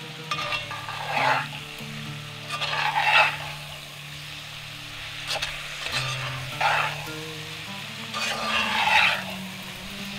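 Okra, garlic and onion sizzling in hot oil in a heavy pot, turned with a metal slotted spatula that scrapes and tosses them in about five strokes.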